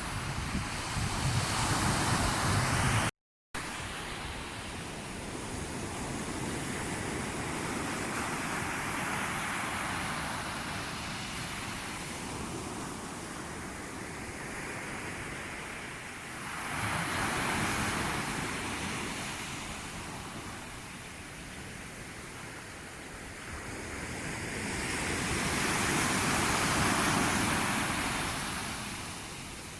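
Sea waves washing ashore, swelling and ebbing in slow surges every seven or eight seconds. The sound cuts out completely for a moment about three seconds in.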